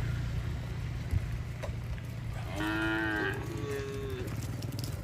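Cattle mooing: two calls in quick succession about halfway through, the second higher-pitched and shorter, over a low steady hum.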